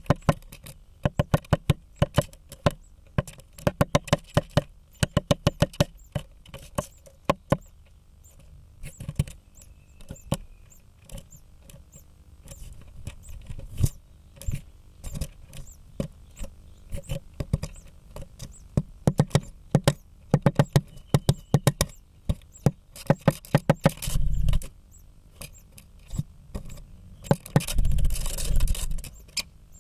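Female great spotted woodpecker hammering at a blue tit nest with its bill, giving rapid runs of sharp wooden knocks separated by short pauses. There are two louder rustling, scraping bursts near the end.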